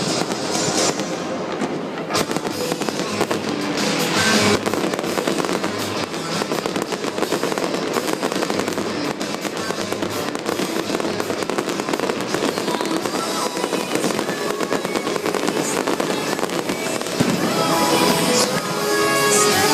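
Fireworks crackling and popping in quick, dense succession over loud show music, with a few louder bangs among them. Near the end the music swells and comes to the fore.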